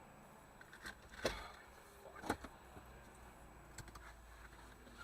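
Faint, steady low hum of a car interior, with a few short knocks; the two loudest come about a second apart shortly after the start.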